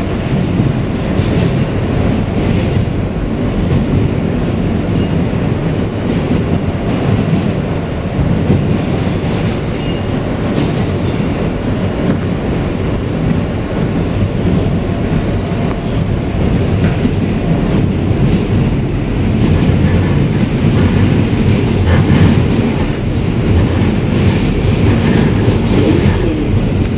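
Kawasaki R160B subway car with Siemens propulsion running, heard from inside the car: a steady rumble of wheels on rail with light clicks, growing a little louder over the second half.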